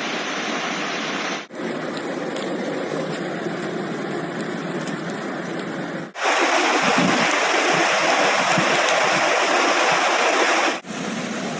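Rushing floodwater and rain: a steady rushing noise that changes abruptly three times as short clips cut from one to the next. The loudest stretch starts about six seconds in and ends shortly before the close.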